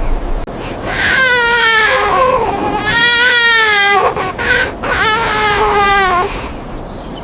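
A child crying in three long wailing cries, the first and last sliding down in pitch.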